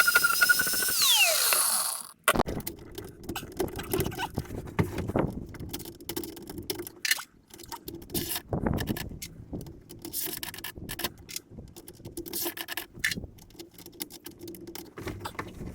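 A high-pitched rotary grinding tool whines, then winds down in falling pitch and stops about two seconds in. After that come irregular scraping, rubbing and clicking as the ground-down metal track is worked and fitted.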